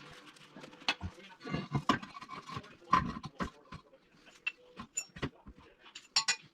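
Irregular knocks and clinks of metal tools and parts being handled, with a few sharper metallic ticks near the end.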